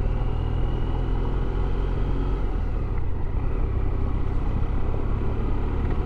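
Motorcycle engine running steadily at cruising speed, heard from the rider's position with wind and road noise over it.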